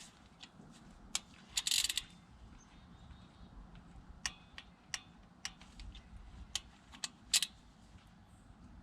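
Hand ratchet working bolts on a 5.9 Cummins diesel cylinder head: a quick run of ratchet clicks about two seconds in, then single sharp metal clicks every second or so.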